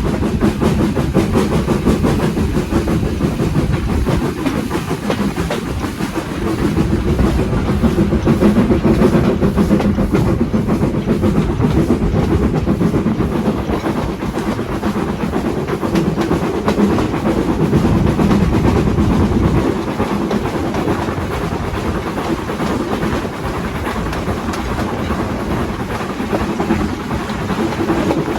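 Steam-hauled train running on the line, its wheels clattering over the rail joints in a steady, continuous rumble.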